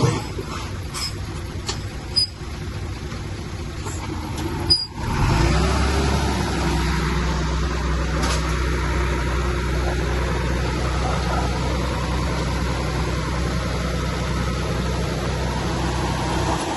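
Heavy diesel engine of earthmoving machinery running, with a few sharp clanks in the first few seconds. It breaks off briefly about five seconds in, then runs steadily at a constant pitch.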